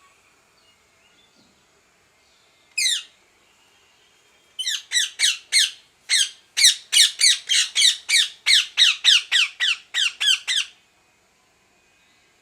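Rose-ringed (Indian ringneck) parakeet squawking: one harsh call, then after a short pause a rapid run of about twenty sharp, downward-sliding squawks, around three a second, lasting some six seconds.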